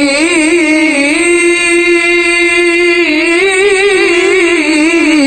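A male qari reciting the Qur'an in the melodic mujawwad style, holding one long note and ornamenting it with wavering turns and small steps in pitch.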